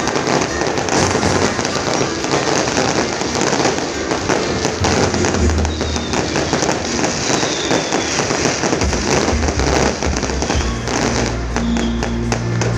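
A fireworks display bursting and crackling in a dense, continuous string of pops. Music with a heavy bass comes in underneath about halfway through.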